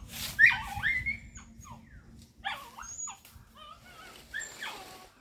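A dog whining and whimpering in several short, high cries that slide up and down in pitch.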